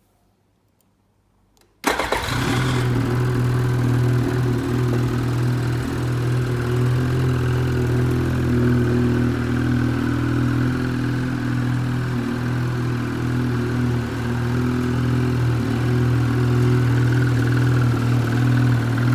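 Lynx Ranger PRO snowmobile's Rotax 600R E-TEC two-stroke twin engine starting: it catches suddenly about two seconds in, then settles into a steady idle.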